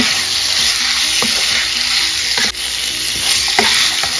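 Boneless chicken pieces sizzling as they fry in oil with onion masala, stirred and turned with a wooden spatula, which knocks and scrapes against the pan now and then.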